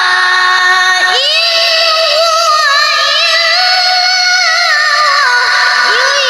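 A child reciting the Quran in melodic tilawah style, holding long high notes with wavering ornaments. There is a short pause and a new phrase about a second in, and another pause and rising phrase near the end.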